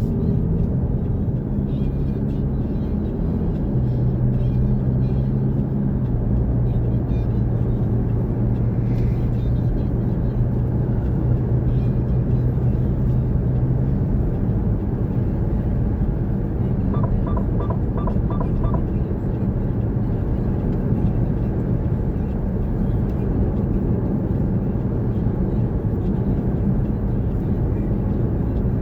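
Car engine and road noise heard from inside a moving car, with a steady engine hum that holds one pitch for about ten seconds before shifting. About two-thirds of the way through, five short high beeps sound in quick succession.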